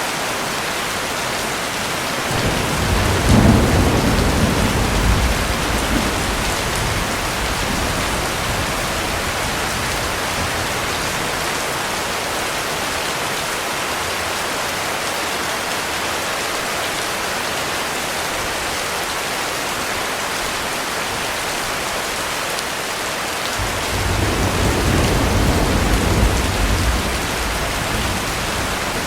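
Heavy rain falling steadily, with two low rolls of thunder: one a few seconds in and another near the end, each rumbling for about four seconds.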